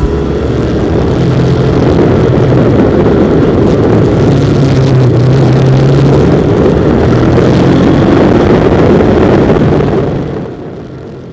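Kymco KCR125 motorcycle engine running steadily, with a low steady note throughout, fading out near the end.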